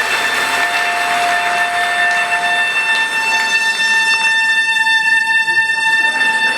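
Soprano saxophone holding one long, steady high note over a haze of background noise; a second, lower tone underneath drops out about two and a half seconds in.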